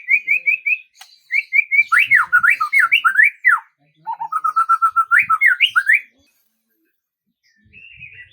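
A songbird singing a loud, varied phrase: a quick series of repeated chirps, then swooping up-and-down whistled notes, a fast even trill and a few rising sweeps. It stops about six seconds in, with only faint notes near the end.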